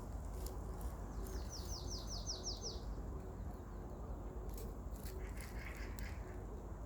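A small songbird singing a fast trill of about nine quick, high, downward-slurred notes, followed a few seconds later by scattered short sharp chirps. A steady low rumble of wind runs underneath.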